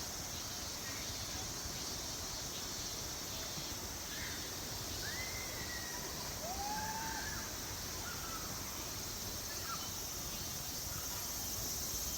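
Steady high-pitched drone of summer insects, with a few short bird calls about halfway through.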